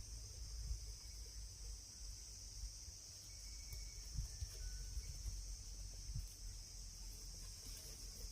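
Steady high-pitched chorus of insects such as crickets, with a low rumble underneath.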